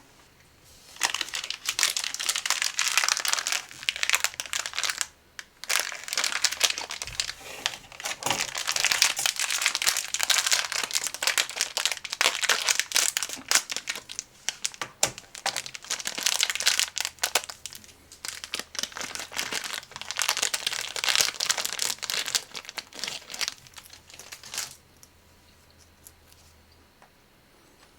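Crinkly snack packaging being handled and crumpled, a dense crackling rustle that goes on in long spells with short pauses, then stops a few seconds before the end.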